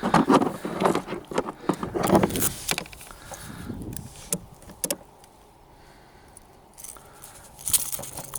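A busy jangling rattle with knocks for about the first three seconds, as a small hooked pike and the little lure in its mouth are handled, then a few scattered clicks.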